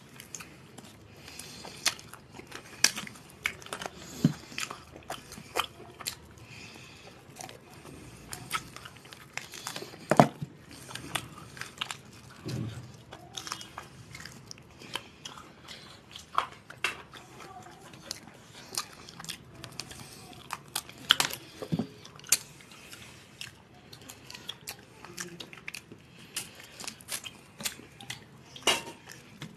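Close-miked chewing and biting as two people eat chicken curry and rice with their hands, with many irregular sharp clicks.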